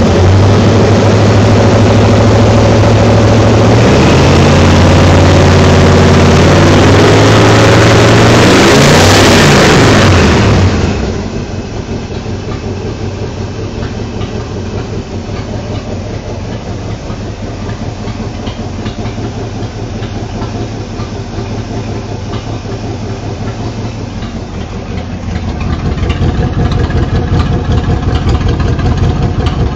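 Small-block Chevrolet V8 running steadily, loud, with a brief rise and fall in pitch about nine seconds in. It turns quieter about eleven seconds in, then louder again near the end beneath the truck, close to the exhaust.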